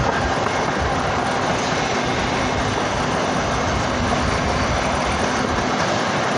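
Steady running noise of a moving freight train, heard from aboard a car close to the locomotive.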